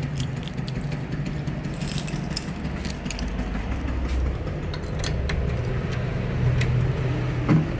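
Steady low rumble of road traffic, with scattered light metallic clicks and jingles; a brief rising sound comes just before the end.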